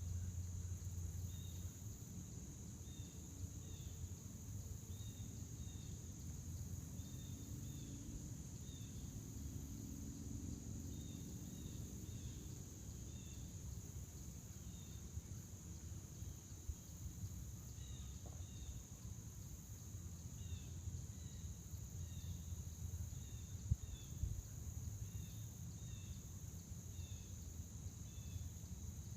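Crickets singing in a steady, continuous high-pitched chorus, with short chirps repeating irregularly over it and a low rumble underneath.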